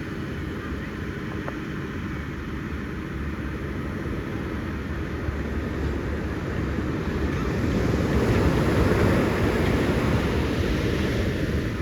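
Ocean surf washing steadily, growing louder as a large wave breaks about eight seconds in and then fading slightly.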